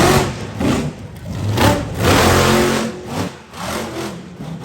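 Monster truck engine revving hard in several surges, fading near the end.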